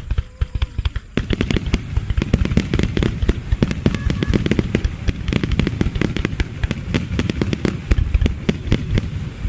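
Fireworks going off in a rapid barrage of crackling and banging, which thickens into a dense, continuous crackle about a second in.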